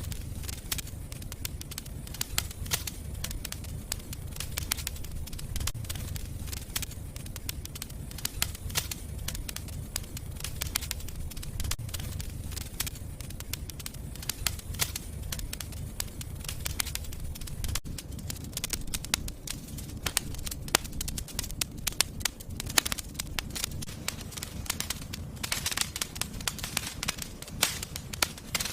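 Fire in a fireplace crackling, with frequent sharp pops over a low steady rumble.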